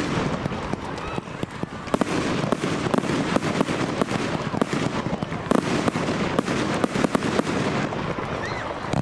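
Fireworks display: a constant rapid crackle of bursting shells and stars, broken by frequent sharp bangs, a few of them much louder.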